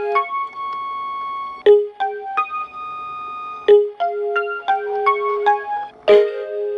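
Baby crib soother toy playing a lullaby melody in electronic piano-like tones, single notes struck one after another and left to ring.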